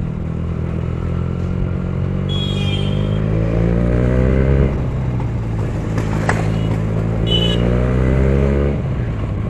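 Benelli TNT 300's parallel-twin engine accelerating under load through the gears, its pitch climbing steadily, dropping sharply at an upshift about halfway through, then climbing again until a second upshift near the end.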